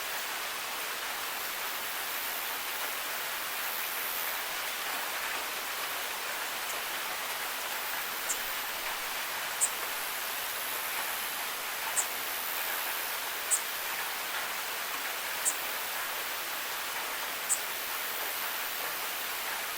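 Steady rain hiss. In the second half, six short sharp ticks stand out, one every second or two.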